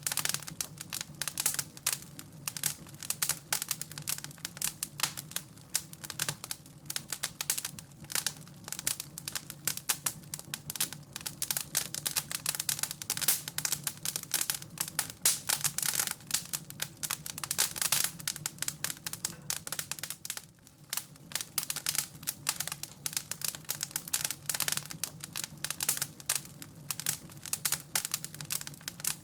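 Wood fire in a fireplace crackling and popping, a dense run of irregular sharp snaps over a low, steady rumble of the flames, thinning briefly about two-thirds of the way through.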